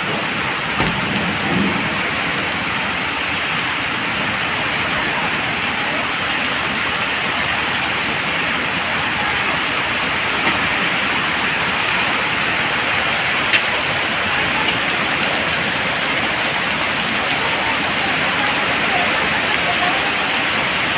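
Steady rainfall: an even hiss of rain with a few sharper drop ticks now and then.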